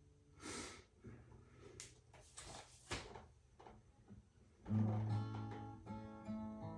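Acoustic guitar: a few brief handling noises, then about two-thirds of the way through it starts strumming chords with strong bass notes, the intro to the next hymn.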